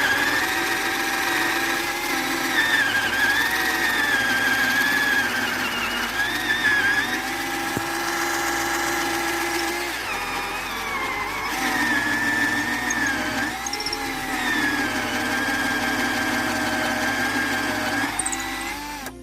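Electric hand drill, its sparking and smoking motor just repaired, running under load as it bores into a piece of wood, its whine dipping and rising in pitch as the bit bites. It winds down near the end.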